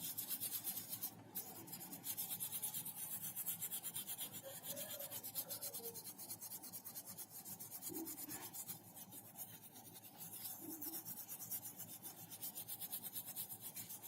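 A small brush scrubbing a phone's circuit board with isopropyl alcohol in quick back-and-forth strokes, a steady scratchy brushing that works off the whitish corrosion left by water damage.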